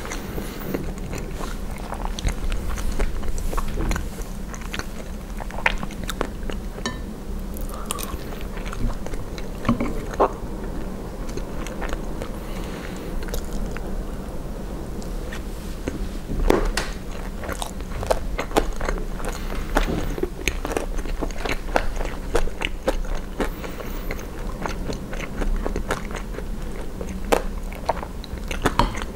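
Close-miked chewing and biting of poutine (fries, cheese curds and gravy): many irregular small clicks and crunches, with a louder one partway through.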